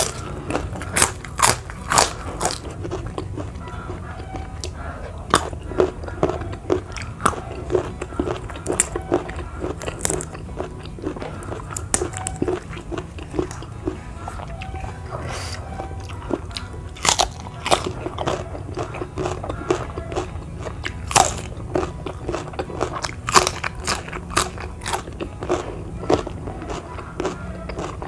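Crunchy food bitten and chewed close to the microphone: repeated sharp, irregular crunches. Faint background music plays underneath.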